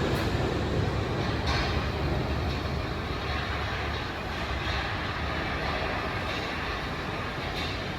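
Wuppertal Schwebebahn suspension railway car running along its overhead rail: a steady rumble of wheels on the rail that slowly fades, with a couple of light clacks.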